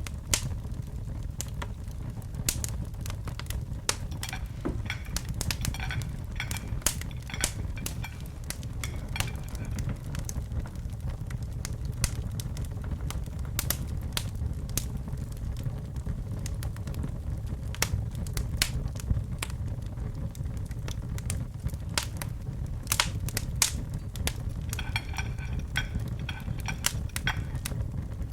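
Wood fire in a fireplace crackling, with many sharp pops over a steady low rumble of burning. Near the end a faint high whistle runs for a few seconds.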